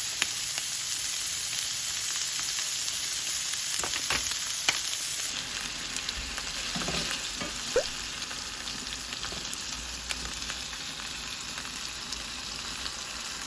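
Food frying in a hot pan: a steady sizzle with a few light clicks. The sizzle drops a little about five seconds in.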